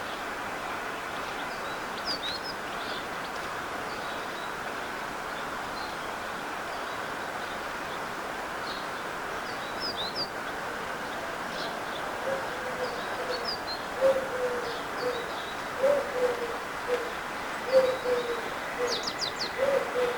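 Garden birds: scattered short, high chirps from small birds, then, from about halfway in, a series of low cooing notes from a pigeon, each dropping slightly in pitch, over a steady background rush.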